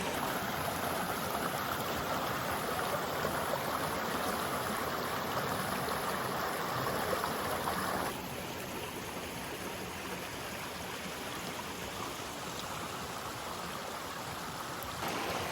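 Creek water running steadily over rocks. About halfway through the sound drops a little quieter and duller.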